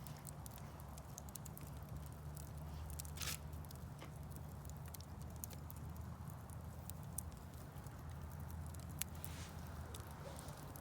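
Wood fire in a fireplace crackling, with frequent irregular small pops and a brief hiss about three seconds in, over a low steady hum.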